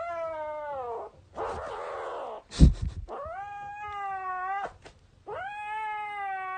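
A cat yowling in three long, drawn-out calls, the first sliding down in pitch and the other two held steady. A single thump comes between the first and second calls.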